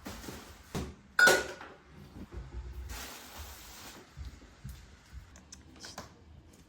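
Crockery being handled: small knocks and clatter, with one loud ringing clink about a second in and a short hiss about three seconds in.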